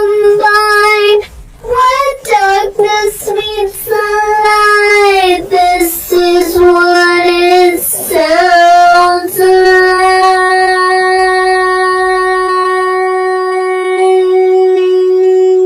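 A single high voice singing short, gliding phrases, then holding one long steady note from a little past the middle onward.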